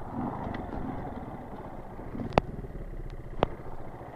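Dirt bike engine running steadily at low revs, with two sharp knocks about a second apart.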